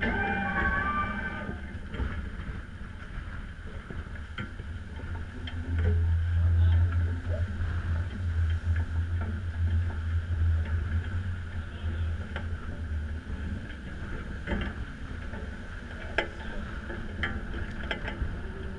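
Strong wind and rushing water aboard a large sailing catamaran running downwind in a gale, with a heavy low rumble of wind buffeting for several seconds in the middle and a few sharp knocks.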